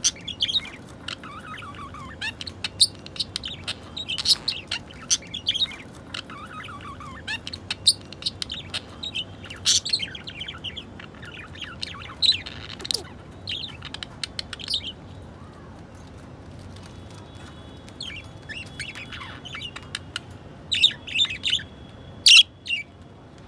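Budgerigars chirping and chattering in quick bursts, with a few falling warbled notes and a couple of louder, sharp calls near the end. The uploader presents these as budgie mating calls.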